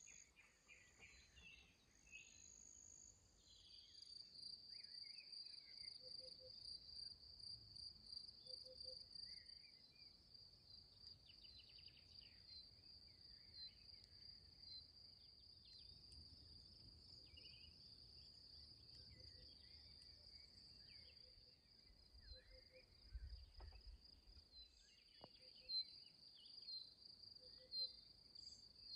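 Faint outdoor ambience: an insect's continuous high, pulsing chirp sets in about four seconds in and keeps on, with a few scattered short chirps.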